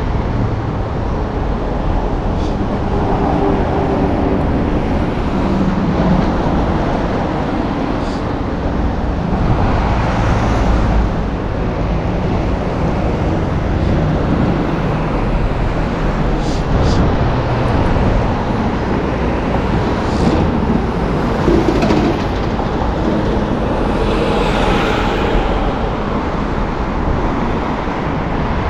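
Steady road traffic close by: cars and other vehicles passing, the noise swelling and easing as they go by.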